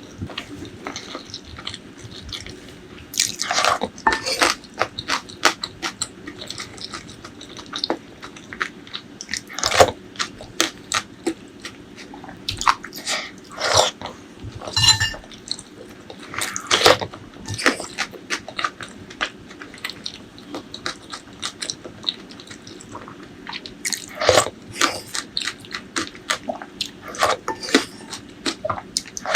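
Close-miked eating: chewing and biting food, with irregular clusters of wet clicks and crunches and short quieter pauses between mouthfuls.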